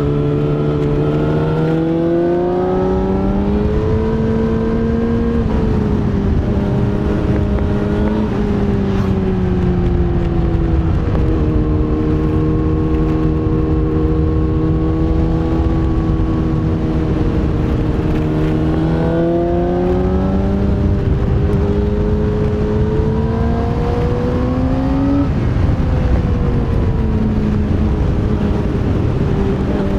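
Yamaha YZF-R6 (RJ27) 600 cc inline-four under way, its engine note climbing as it pulls and stepping down sharply at gear changes about 5, 11 and 25 seconds in, holding fairly steady between about 12 and 17 seconds.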